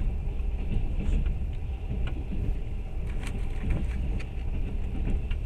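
Steady low rumble of a moving passenger train heard from inside the carriage, with a few faint clicks scattered through it.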